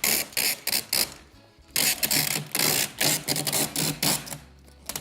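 Adhesive packing tape pulled off its roll in a series of short, rasping pulls, with a couple of longer pulls near the middle, as it is laid onto cardboard boxes to join them.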